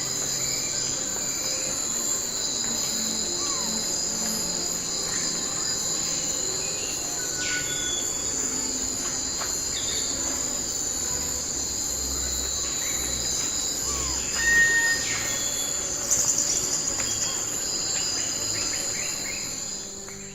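Steady high-pitched drone of a chorus of insects, with a few short chirps scattered through.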